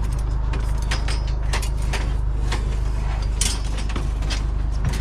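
Scrap metal pieces clanking and knocking as they are handled, a dozen or so irregular sharp clicks, over a steady low rumble.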